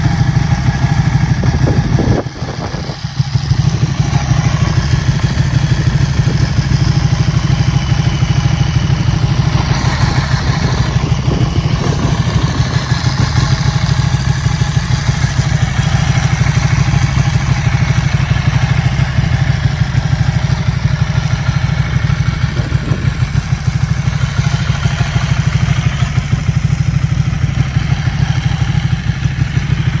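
Ducati 1199 Panigale S's Superquadro V-twin engine idling steadily with an even, pulsing beat, with a brief dip about two seconds in.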